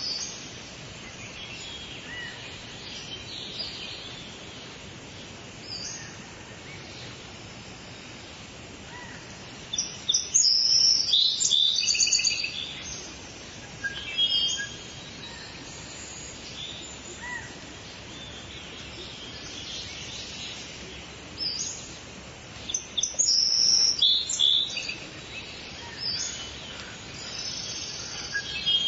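Several birds singing and chirping over a steady hiss of background noise, with the busiest bursts of song about ten seconds in and again past twenty seconds.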